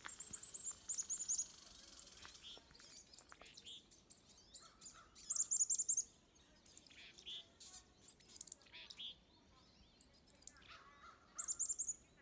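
Wild birds calling in a marsh: repeated quick runs of very high chirps, with a few lower, coarser calls in the middle and near the end.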